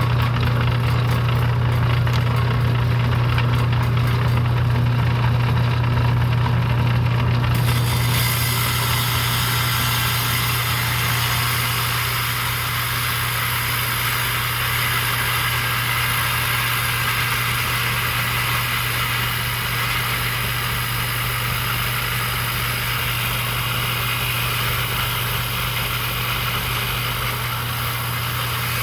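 Vintage Gino rock trim saw running with a steady electric motor hum, its oil-lubricated lapidary blade turning in mineral oil. About seven seconds in, a steady hiss comes in suddenly and holds as the blade cuts into a piece of red jasper.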